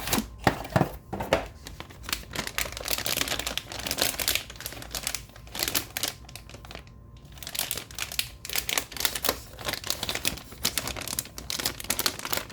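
Plastic packaging crinkling and rustling in irregular bursts as it is handled and unwrapped, pausing briefly about seven seconds in.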